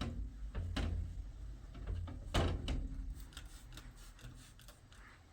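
A few separate knocks and thuds of household objects being handled, the loudest about two and a half seconds in, over a low rumble that fades toward the end.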